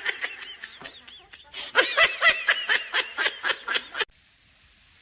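High-pitched laughter in quick, repeated "ha-ha" bursts, in two runs with a short break, cutting off abruptly near the end.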